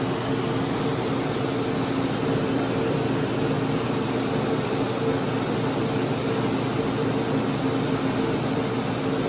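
Steady mechanical hum: an even rushing noise with a low droning tone under it, unchanging throughout.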